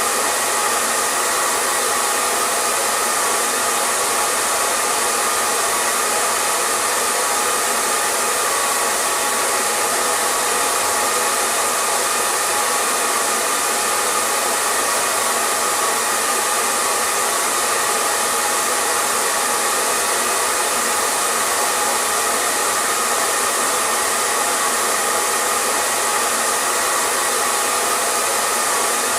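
Hair dryer blowing continuously: a steady rushing hiss of air with a faint motor whine, unchanging in level.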